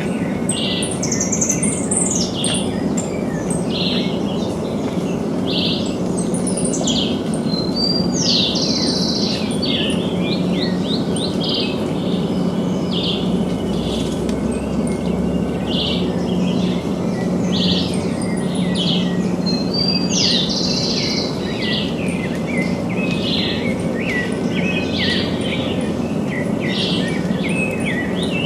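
Several birds chirping and calling in short, repeated high notes, some sweeping in pitch, over a steady low background noise.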